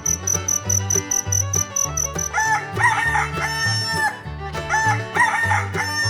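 Rooster crowing twice, over background music with a steady bass beat.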